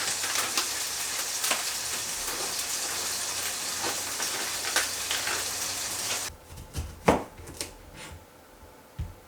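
Food sizzling and crackling in a hot pan, cutting off suddenly about six seconds in. A few light knocks follow, one of them sharper.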